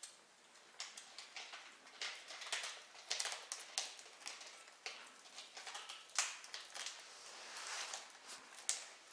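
Kitten eating, with irregular small wet clicks and crunches from its chewing and lapping, several a second.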